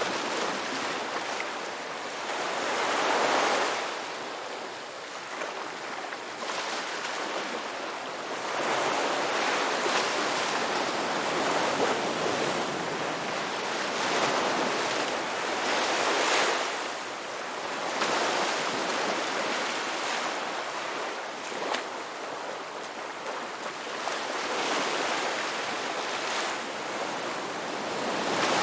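Ocean surf washing onto a beach: a continuous hiss of water that swells and eases as each wave breaks, every few seconds.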